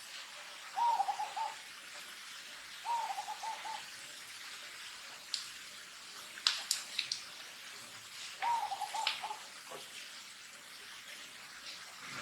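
A bird calling three times, each call a short phrase of a rising note followed by a few quick repeated hooting notes, over a steady hiss. A few sharp clicks fall between the second and third calls.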